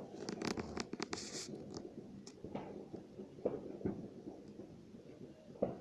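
A quick run of sharp crackles over the first second and a half, then scattered single cracks over a low rumble.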